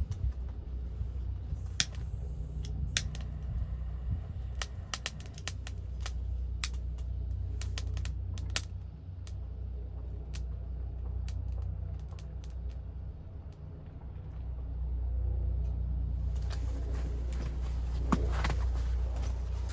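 Wood fire in a secondary-combustion fire pit crackling, with scattered sharp pops over a low steady rumble.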